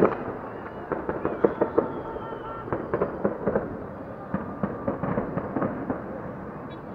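Fireworks and firecrackers going off across the city: one loud sharp bang at the start, then a dense, scattered crackle of pops and bangs, several a second.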